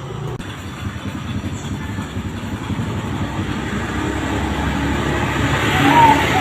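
Rumbling vehicle noise grows steadily louder, passing close by, and drowns out the birdsong. Near the end a zebra dove's cooing starts up again with a short rising note.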